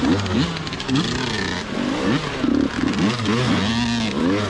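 Several 125cc two-stroke dirt bikes revving hard, the engine pitch rising and falling over and over as the throttles are worked.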